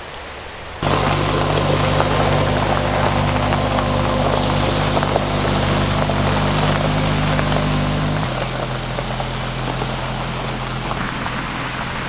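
An engine starts suddenly about a second in and runs steadily, then settles to a lower, steadier idle about eight seconds in.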